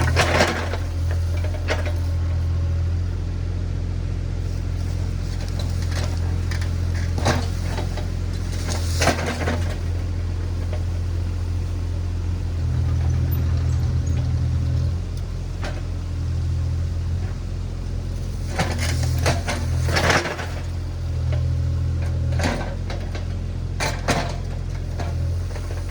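Diesel engine of compact earthmoving equipment running steadily, working harder for a couple of seconds about halfway through, with scattered sharp clanks and knocks over it.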